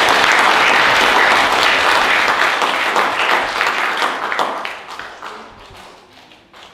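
Congregation applauding, a dense steady clapping that thins out to a few scattered claps and dies away over the last couple of seconds.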